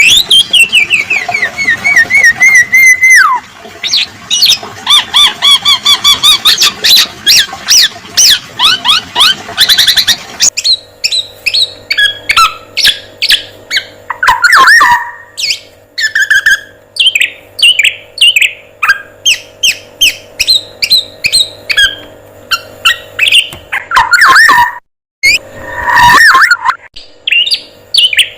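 Loud recorded songbird song played for bird training: rapid whistled notes, rising and falling sweeps and sharp chattering calls, with abrupt edits where the recording changes about ten seconds in and drops out briefly near the end.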